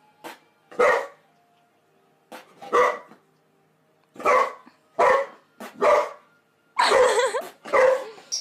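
A dog barking repeatedly, about eight sharp barks at uneven gaps, with one longer bark about seven seconds in.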